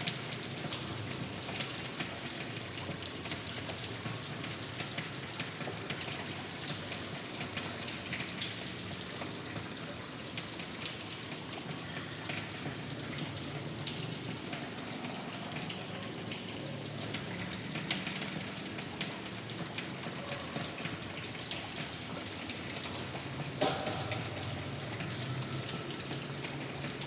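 Steady rain falling, with short high chirps every second or two and a couple of louder drops, one about two-thirds of the way in and one near the end.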